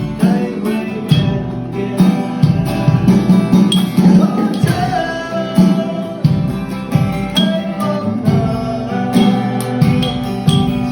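A band playing a song: singing over guitar and a steady beat.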